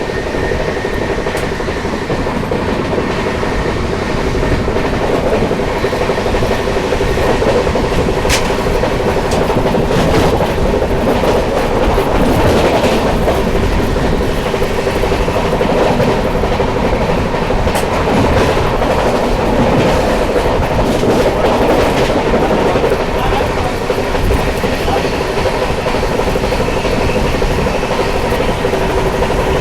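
Express train hauled by twin WDP4D diesel locomotives running at high speed, about 130 km/h. A steady, loud rumble of wheels on rail carries a few sharp clicks and a constant droning tone.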